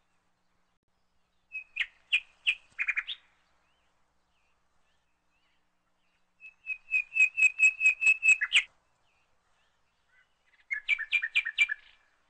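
A small bird chirping in three bouts of quick, evenly repeated high notes, each lasting one to two seconds, with silence between them.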